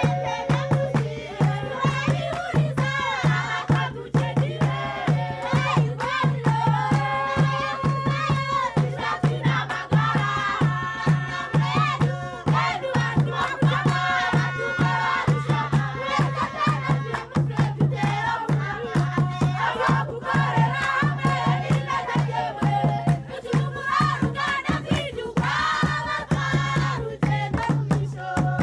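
Traditional folk music: a group of voices singing in chorus over a steady, driving drumbeat.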